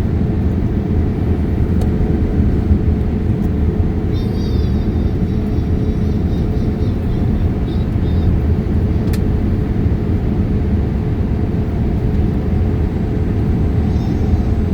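Steady cabin noise inside a Boeing 787 Dreamliner airliner in flight: a constant deep rumble of engines and airflow with a steady hum.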